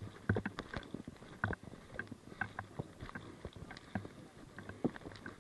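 Irregular knocks, clicks and rustles, a few a second, as of a player's footsteps and kit jostling against a body-worn microphone.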